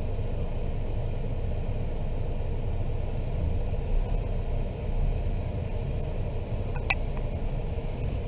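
Steady low rumble of a car heard from inside the cabin, with a brief high chirp about seven seconds in.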